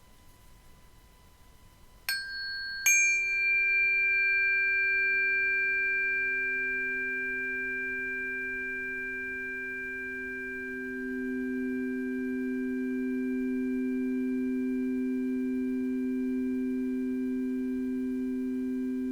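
Two strikes on ringing metal sound-healing instruments, a little under a second apart, each leaving long, steady, pure tones. A low hum swells in a couple of seconds later and grows louder later on.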